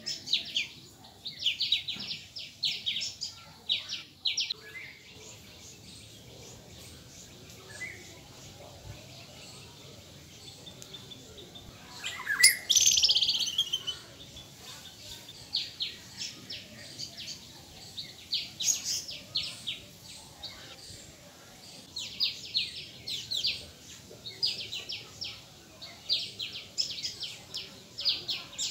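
Birds chirping in quick runs of short, high notes, coming in bursts with quieter gaps between, and one louder call sweeping down in pitch about twelve seconds in.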